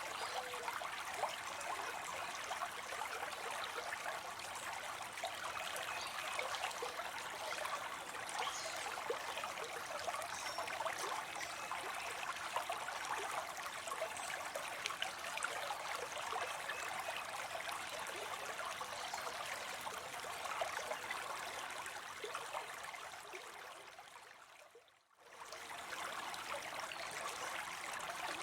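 Small cascade of water spilling into a pond: a steady splashing trickle full of fine droplet patters. Near the end it fades away for about a second and comes back.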